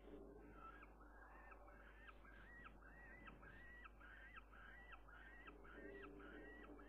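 A bird calling over and over, about twice a second, each note rising and then holding level, over a faint steady low hum.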